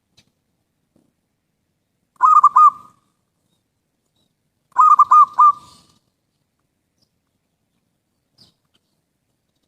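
Zebra dove cooing: two short phrases of quick rippling coos, about two and a half seconds apart.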